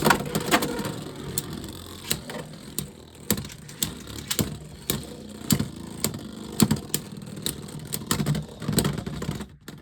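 Beyblade X tops spinning in a plastic stadium: a steady whir with many sharp, irregular clacks as they collide and grind along the rail, cutting off suddenly near the end.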